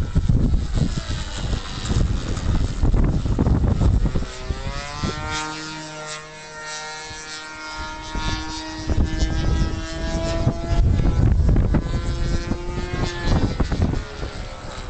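Radio-controlled model aircraft's motor whining overhead; its pitch rises about four seconds in, then holds steady for several seconds before sinking back under the noise. Strong wind buffets the microphone, loudest at the start and near the end.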